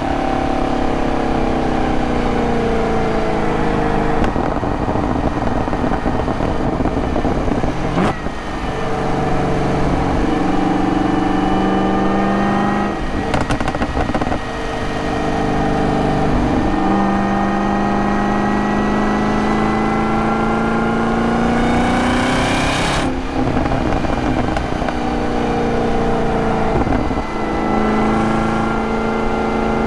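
Supercharged 6.2-litre V8 of a Camaro ZL1 under way, its note repeatedly climbing in pitch under acceleration and falling off again, with several brief breaks where the pitch drops at the gear changes of the six-speed manual.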